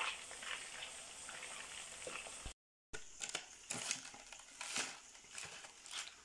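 Chicken pieces and curry leaves frying in oil in a pan, a faint steady sizzle with a spoon moving in the oil. After a brief gap, a few light clicks and rustles as fried chicken and curry leaves are dropped from a slotted spoon onto a paper-lined plate.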